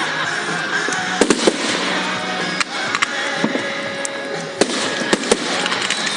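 Fireworks display: a dense, continuous crackling of bursting shells with about six sharp bangs spread through it.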